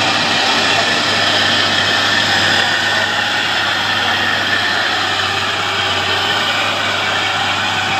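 Mitsubishi Canter light truck's diesel engine running steadily, a constant loud drone over a low hum.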